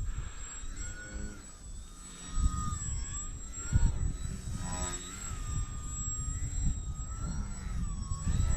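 Electric motor and propeller of a small battery-powered RC 3D plane whining in flight, its pitch dipping and rising with the throttle, over wind buffeting the microphone.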